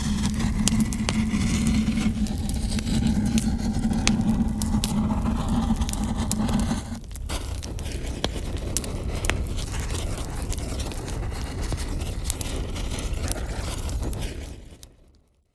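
Eucalyptus branches burning in an open fireplace, the oil in their bark spurting out as small jets of flame: a steady rushing noise with frequent sharp crackles and pops. The sound breaks off briefly about seven seconds in, carries on crackling, and fades out near the end.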